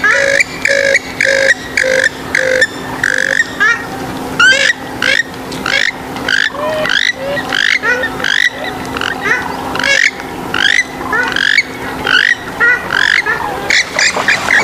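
Swamphen and moorhen calls: a run of short calls repeated about twice a second, then from about four seconds in a busier stretch of quick upward-sweeping calls that overlap one another.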